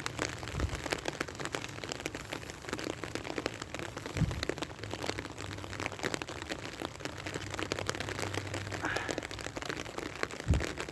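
Rain falling, a dense patter of many small drop ticks over a steady hiss, with a few low thumps.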